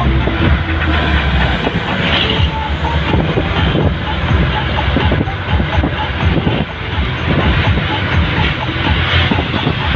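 Truck in motion: engine rumble with the body rattling and knocking over the road.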